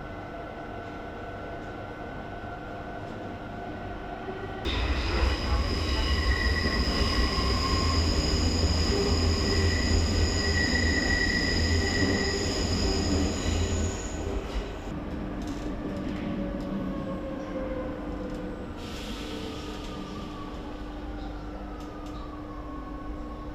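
Rome Metro Line A subway train running. About five seconds in, a loud rumble starts with high, steady wheel squeal and lasts until about fourteen seconds in. After that, a whine falls in pitch as the train slows.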